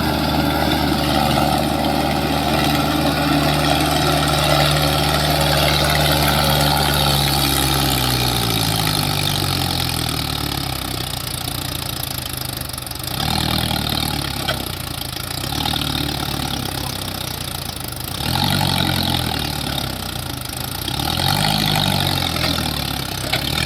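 Mahindra Arjun diesel tractor engine labouring under the load of a soil-laden trolley. It runs steadily at first, then its pitch drops about eight seconds in as it bogs down, followed by several rises and falls in revs. The tractor is getting stuck.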